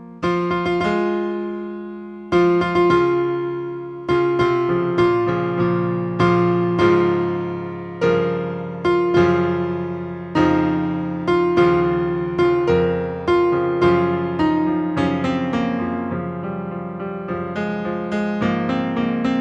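Piano playing a slow closing postlude: chords struck about once a second, each ringing out and fading, with quicker notes running together near the end.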